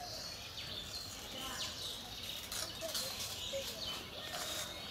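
Small birds chirping: many short, high calls overlapping one another over a faint steady background noise.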